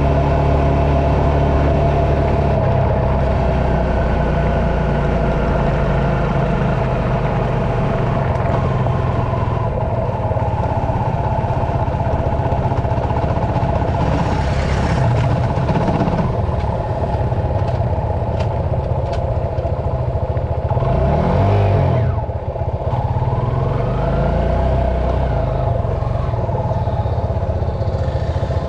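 Dirt bike engine running, its pitch rising and falling as it revs, over a steady engine drone; about three-quarters of the way through, a bike sweeps sharply up and down in pitch as it passes close by.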